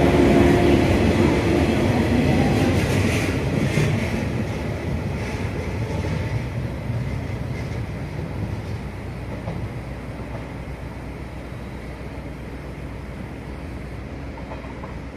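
A train running along the track and moving away, its rumble and wheel noise fading steadily.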